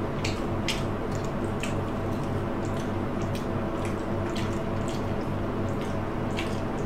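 Close-miked wet chewing and lip-smacking of skewered rolled egg (telur gulung), a string of short, sharp smacks and clicks over a steady low hum.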